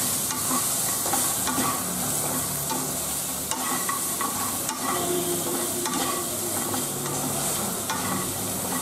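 Eggplant chunks and fried bori sizzling in oil in a nonstick kadai while being stirred and tossed with a wooden spatula. The sizzle is steady, with a few light knocks of the spatula against the pan.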